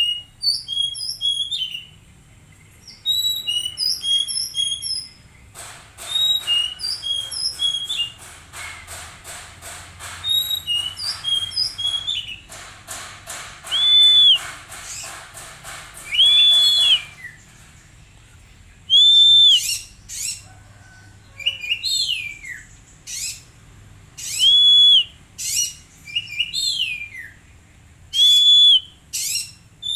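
Oriental magpie-robin song: clear whistled notes and fast chips, a long run of rapid buzzy notes in the first half, then loud arched whistles repeated every couple of seconds.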